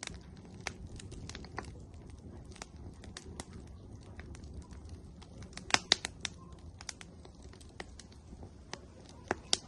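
Firewood burning in an outdoor grill, crackling with irregular sharp pops over a low steady rumble; the loudest cluster of pops comes about six seconds in, with two more near the end.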